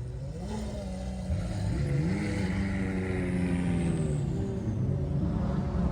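Car engines in slow street traffic, one climbing in pitch as it is revved, holding the revs for a couple of seconds and then dropping back towards idle, over the steady low drone of other idling cars.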